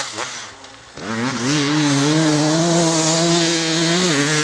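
KTM 300 EXC's single-cylinder two-stroke engine revving: a short blip at first, then about a second in the revs climb and are held high and steady, with a brief dip near the end.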